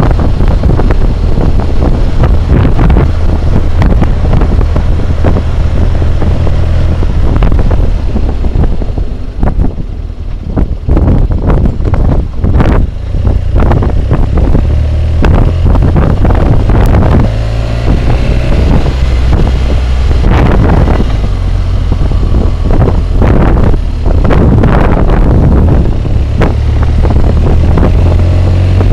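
Wind roar buffeting a helmet-mounted camera's microphone at riding speed, gusty and loud, over the BMW motorcycle's engine. The engine's pitch rises and falls briefly a little past the middle, and the roar eases for a few seconds about a third of the way in.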